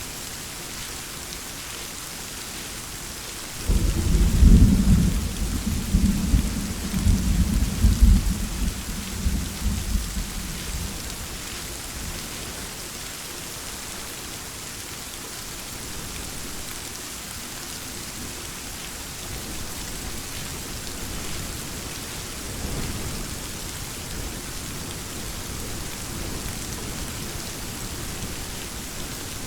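Steady heavy rain hissing, with a clap of thunder breaking about four seconds in and rumbling on in rolls for some seven seconds before fading; a fainter distant rumble comes later.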